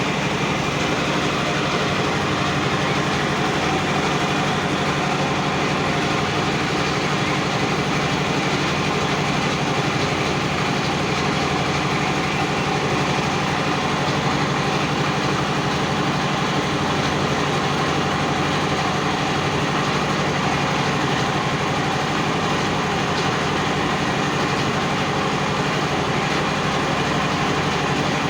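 A motorboat's engine running at a steady speed, a constant drone that does not change.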